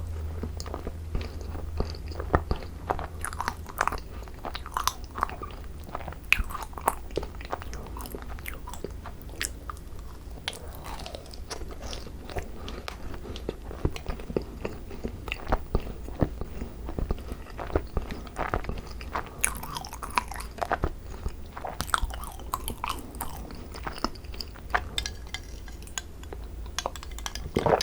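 Close-miked biting and chewing of thick cream-filled Korean macarons (ddungcarons): many irregular small crunches, clicks and wet mouth sounds, over a low steady hum.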